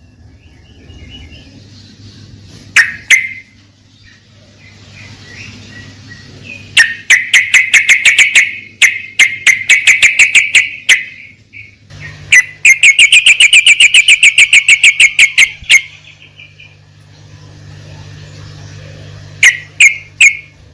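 Trucukan (yellow-vented bulbul) singing in loud bursts of quick, sharp, chattering notes, ending in a fast run of about six notes a second. It is the kind of song played to set silent captive trucukan singing.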